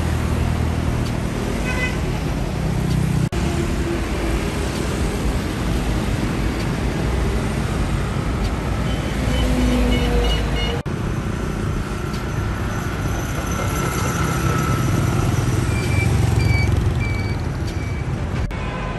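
Street traffic noise: vehicle engines running with a steady rumble, and short repeated beeps at two points, once about halfway through and again near the end.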